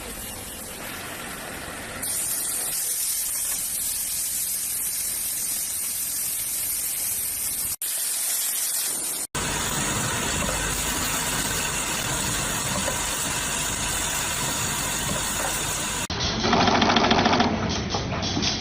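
Factory machinery running with a steady hissing noise, changing abruptly several times as one machine's sound gives way to another's, and louder near the end.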